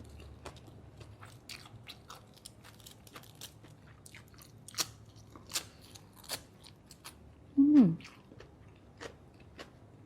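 A person chewing and biting grilled pork neck salad with rice: a steady run of small wet clicks and crunches. About three quarters of the way in, a short hummed "mm" falls in pitch.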